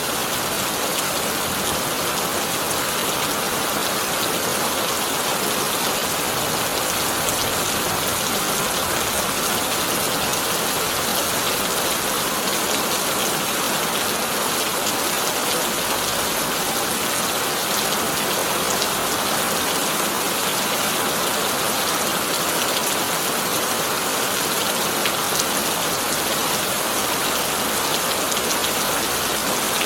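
Heavy rain drumming steadily on a corrugated metal roof, a dense patter of drops at an even level.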